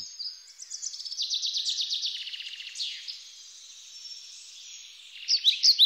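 Songbirds singing: high, rapid trills for the first few seconds, fainter twittering, then a run of loud, sharp chirps near the end.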